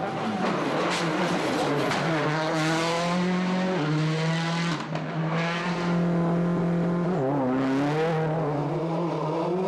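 Turbocharged World Rally Car engine accelerating hard along a stage, its pitch climbing over and over with quick gear changes in between.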